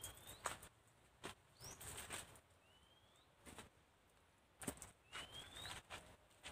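A bird calling with short rising whistles, about four in all, a second or so apart. Faint scuffs, as of footsteps on a dry dirt bank, fall between them.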